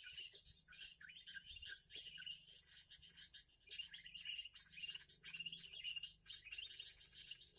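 Small birds chirping busily, many short high calls tumbling over one another, over a steady high insect drone.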